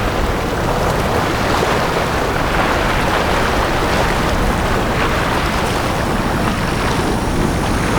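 Small sea waves washing onto a beach: a steady rush of surf with soft surges every second or so, and a low wind rumble on the microphone.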